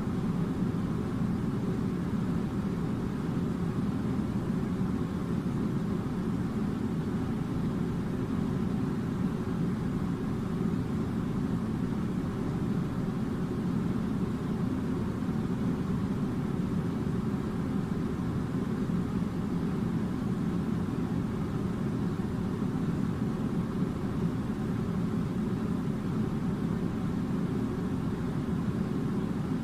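Air conditioner running: a steady, low rushing noise that does not change.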